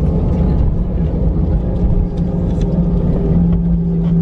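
Cabin noise inside an Airbus A319 airliner: the jet engines running steadily, a low rumble with a constant hum.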